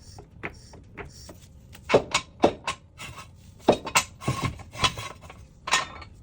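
Car jack being worked to lift the car: a string of irregular metal clicks and knocks, about eight of them from two seconds in.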